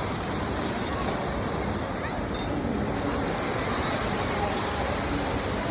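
Steady rush of water pouring down a 15-metre indoor waterfall.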